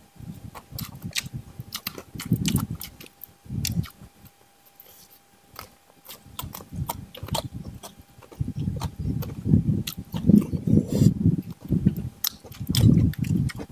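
Close-miked chewing and smacking of fried catfish, rice and sambal being eaten by hand, with sharp wet mouth clicks. The chewing grows busier and louder in the second half.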